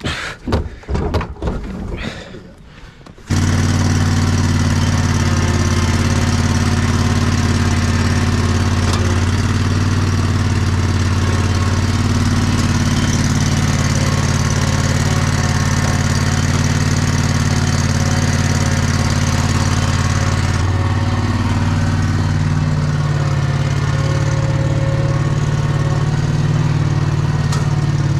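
A few knocks and clatters, then from about three seconds in a vehicle engine runs steadily at an even speed with a low droning hum.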